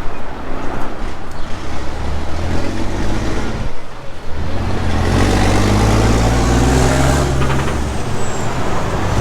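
A road vehicle's engine running close by, a low note that drops away briefly about four seconds in and then comes back stronger and steady.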